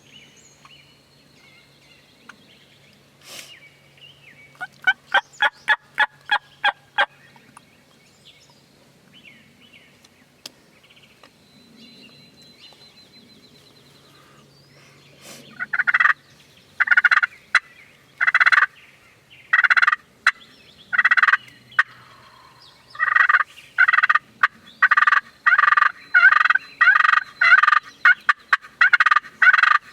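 Wild turkey yelping at close range: a quick run of about nine short yelps, then about halfway through a much louder string of repeated yelps that speeds up to about two a second.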